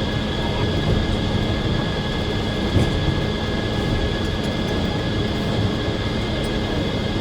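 Circular sawmill running steadily: a loud machine drone with a constant high whine and no break or change.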